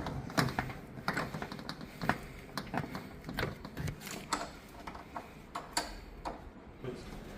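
A run of irregular sharp clicks and light knocks, about one or two a second, like things being handled and worked on by hand.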